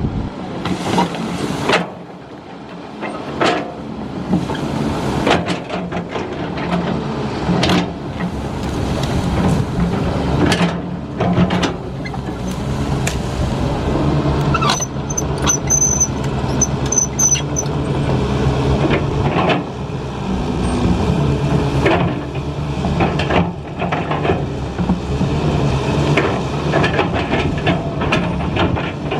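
Heavy diesel construction machinery running, with an engine drone and repeated metallic clanks and knocks. About halfway through there is a short run of high-pitched squeaks.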